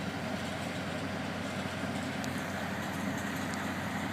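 A crane's engine running steadily with a low, even hum.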